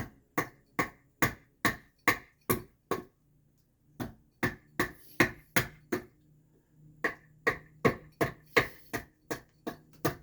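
Hand adze chopping into alderwood, hollowing out the back of a carved mask: a steady run of sharp strokes, about two to three a second, broken by two short pauses, the first about three seconds in and the second a little past the middle.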